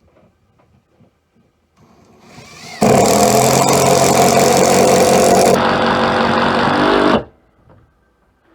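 Hart 20 volt cordless impact driver driving a 3.5 inch sheetrock screw into a 4x4: a short soft start, then about four seconds of loud, steady hammering at full speed as the screw is pulled down below the wood's surface, stopping abruptly.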